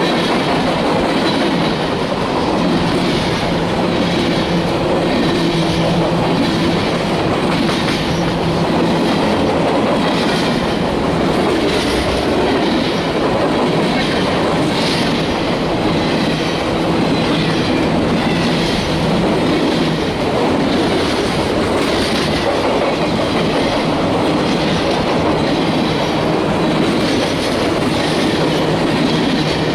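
Freight train cars rolling past at a steady speed, the wheels clicking rhythmically over the rail joints about once a second, with a steady low rumble.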